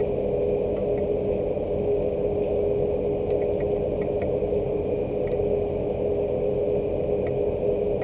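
Steady machine hum holding one constant mid-low tone, over rain, with a few faint scattered ticks.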